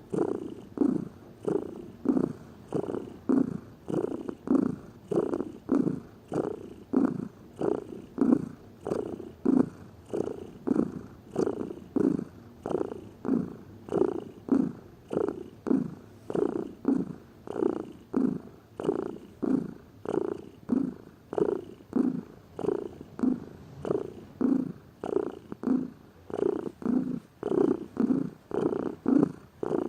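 Domestic cat purring steadily and rhythmically, each breath in and out heard as a swell, about three swells every two seconds.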